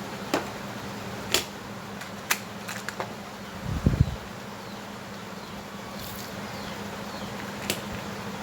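Scattered sharp clicks and taps of tools and parts being handled, over a steady low hum, with a brief cluster of low thuds about four seconds in.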